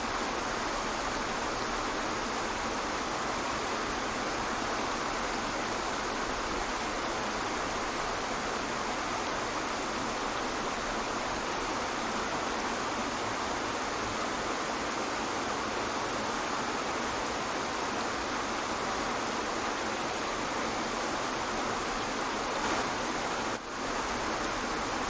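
Steady, even rushing of a waterfall, with a brief dip in level about a second and a half before the end.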